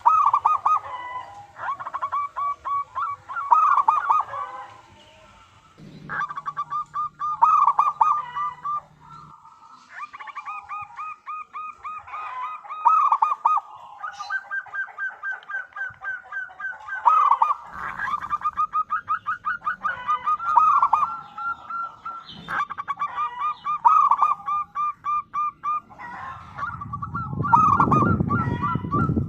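Zebra dove (perkutut) cooing: repeated phrases of rapid, trilled notes, one after another. A low rumble comes in near the end.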